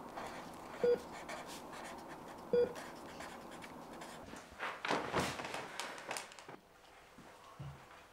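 Short electronic beeps, each a single steady tone, sounding twice about a second and a half apart, like a hospital heart monitor. A few seconds later comes a louder burst of rustling.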